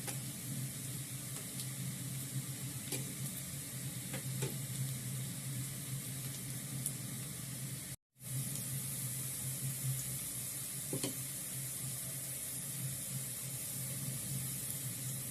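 Onions sizzling steadily in hot cooking oil in a pan as they brown, with a few faint clicks; the sound drops out for an instant about eight seconds in.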